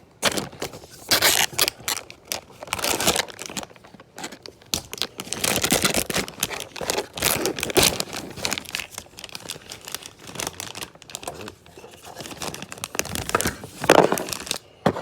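Packaging being handled and torn open: irregular crinkling and tearing of paper or plastic wrapping, in loud bursts that come and go.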